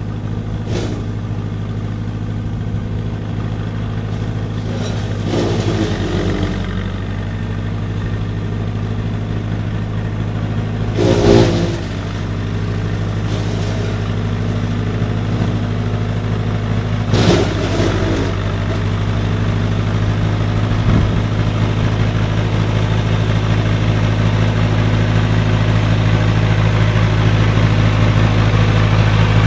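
Tractor engine running steadily, with three brief louder surges about six seconds apart.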